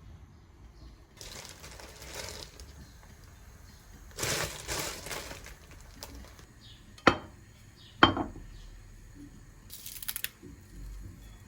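Household handling noises: rustling and scraping, with two sharp clinks or knocks about seven and eight seconds in.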